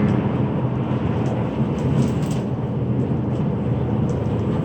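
Inside a coach bus driving at speed: the steady drone of the engine and tyres on the road, with a few faint rattles about two seconds in.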